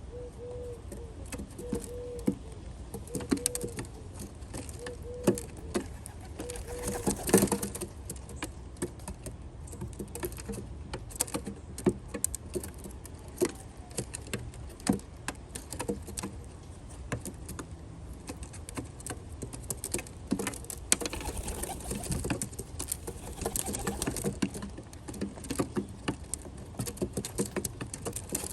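Rock doves pecking at nuts and seeds on a feeding platform: a busy clatter of quick, irregular taps and clicks. Short repeated cooing notes are heard over the first several seconds.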